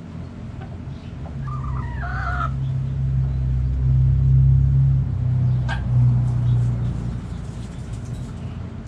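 A rooster crows once, briefly, about a second in. Under it a low engine rumble, like a passing vehicle, swells, is loudest mid-way and fades out.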